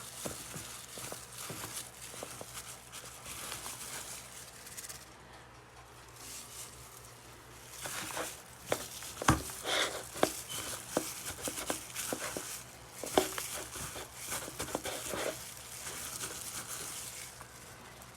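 A gloved hand tossing and pressing raw chicken pieces in a dish of dry breading: irregular rustling, crinkling and patting, with scattered clicks and a few sharper knocks near the middle.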